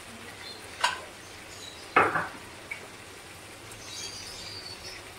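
Ground onion paste frying in a pot with a steady sizzle, broken by two sharp utensil knocks about one and two seconds in, the second louder.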